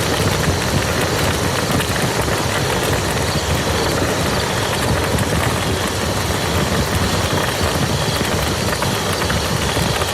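Steady, unbroken rain falling on muddy ground, a dense even patter of drops.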